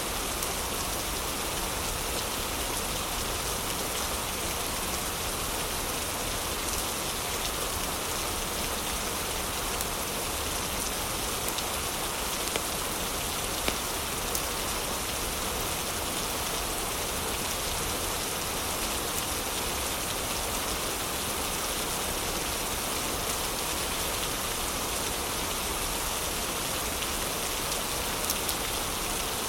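Heavy rain falling steadily, an even dense hiss, with a few brief sharper ticks standing out here and there.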